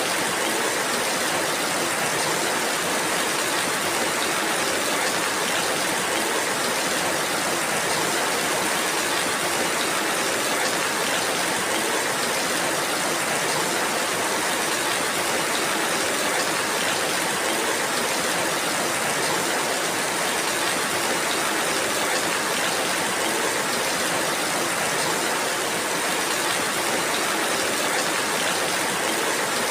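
Steady rainfall, an even hiss with no breaks or distinct drops standing out.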